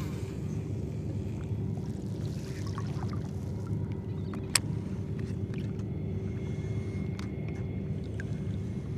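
Boat motor running steadily with a constant hum, and one sharp click about four and a half seconds in.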